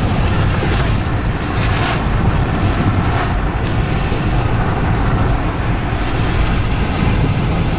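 Steady rumble of road and wind noise from a moving car, with a few brief hissing swells in the first few seconds.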